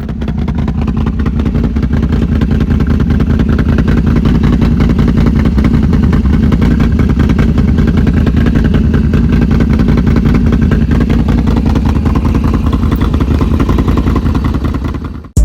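2021 Can-Am Renegade XMR 1000R's V-twin engine running loud and steady through a short custom-fabricated exhaust, its firing pulses coming fast and even. It stops abruptly near the end.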